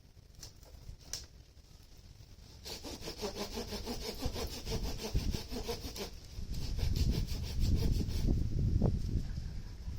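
Hand saw cutting wood: rapid, rhythmic rasping strokes starting about three seconds in and stopping near the end, with a low rumble under the later strokes.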